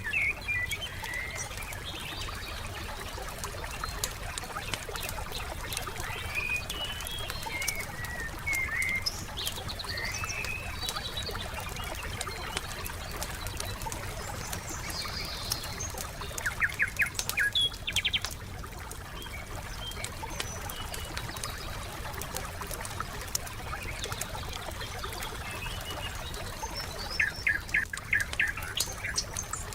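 Wood campfire crackling with a steady scatter of small pops, under songbirds chirping and whistling. Twice, once about midway and once near the end, a bird gives a quick run of sharp chirps.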